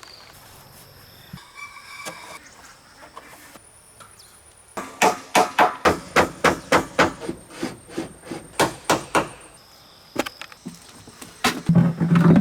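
Hammer blows in a quick run of about four to five a second, starting about five seconds in, then a few louder blows near the end.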